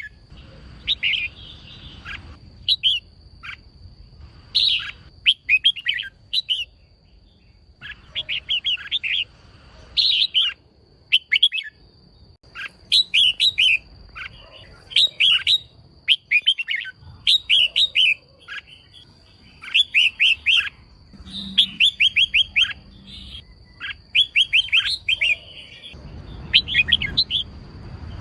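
Female red-whiskered bulbul giving short bursts of rapid chirping calls, phrase after phrase with brief pauses between. A faint steady high tone runs underneath.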